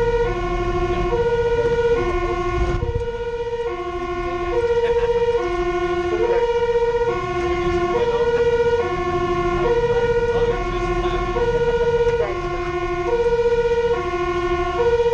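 Fire engine's two-tone siren sounding continuously, a high and a low note alternating about once a second, over the low rumble of the truck's engine and tyres.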